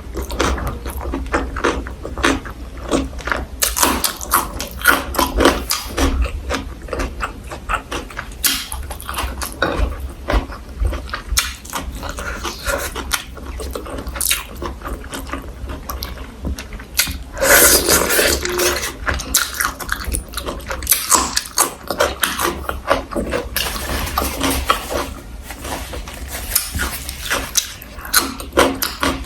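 Close-up eating sounds: wet chewing and mouth smacking of braised pork, kimchi, pickled garlic, vegetables and rice, full of short crisp clicks. One louder, noisier stretch of about a second comes a little past halfway.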